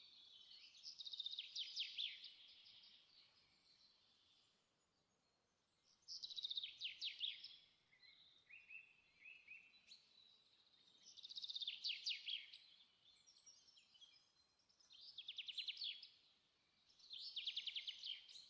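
A bird singing: five short trilled phrases, each a quick run of repeated notes, with pauses of a few seconds between them.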